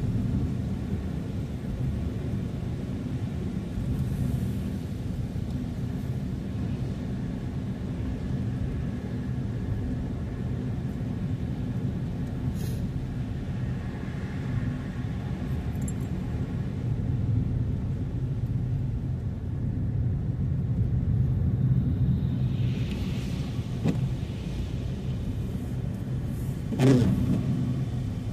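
Steady low rumble of a car being driven, engine and tyres on the road. A short sharp knock sounds near the end.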